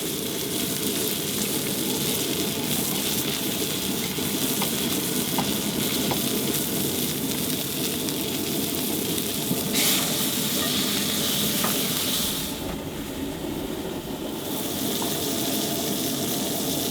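Steak searing in a hot pan with olive oil and garlic, sizzling steadily, with a few faint ticks and pops.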